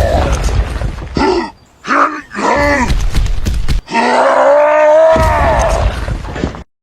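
A person's voice groaning and wailing in several drawn-out cries, the longest about four seconds in, over a low rumble. It cuts off just before the end.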